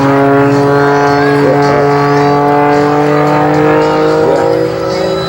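Propeller airplane engine droning steadily, its pitch slowly rising.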